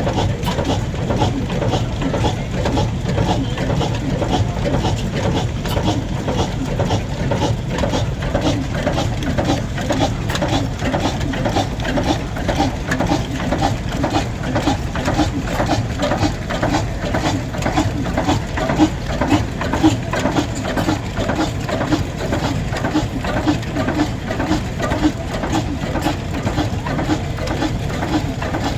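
A vintage engine or machine running steadily with a regular, rhythmic beat.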